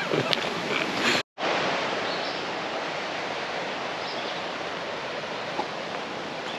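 Steady rush of running water from a creek or waterfall, cutting out for a moment about a second in and then carrying on.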